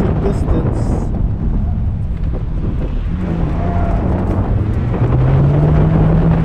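Car engine heard from inside the cabin during an autocross run, its note easing off about a second in, returning around three seconds and shifting lower then higher again near the end as the car works through the cone course. Wind noise runs under it.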